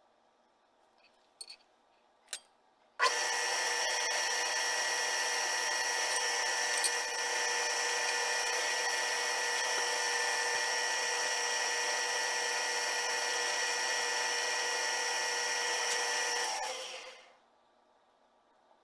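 A workshop power tool's electric motor switches on with a click and runs at a steady, even whine for about thirteen seconds, then is switched off and spins down over about a second. Two light clicks come just before it starts.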